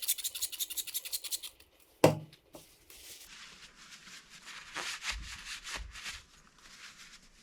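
Hand scrubbing of grimy engine cases: quick, even back-and-forth strokes at first, a single sharp knock about two seconds in, then slower, softer scrubbing strokes.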